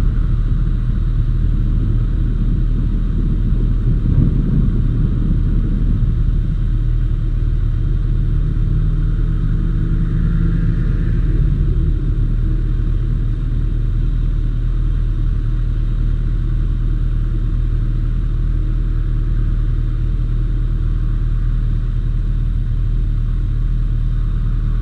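Motorcycle engine running with a steady low rumble, held at an even pitch with no revving.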